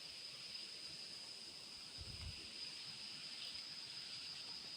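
Faint, steady outdoor forest ambience: a soft even hiss with a thin steady high tone running through it, and one soft low thump about two seconds in.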